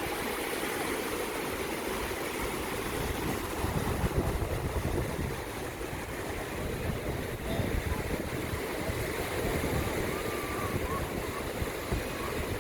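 Sea surf washing on the shore, with wind buffeting the microphone in low rumbling gusts, strongest about four seconds in.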